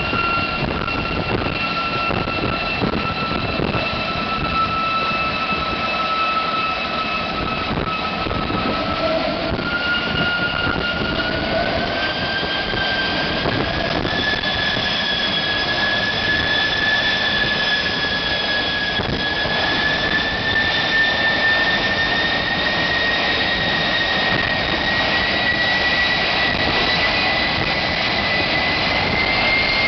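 GE J33 centrifugal-flow turbojet running loud and steady, its whine dipping slightly at first and then climbing steadily in pitch from about eight seconds in as the engine speeds up.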